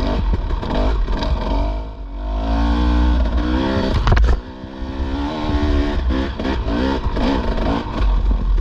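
Dirt bike engine revving up and down under riding, with wind buffeting the microphone. A sharp knock about four seconds in, after which the engine drops off briefly before picking up again.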